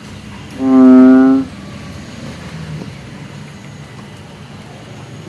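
A kodok bangkong (blentung) frog giving one long, steady, deep call about half a second in, lasting nearly a second.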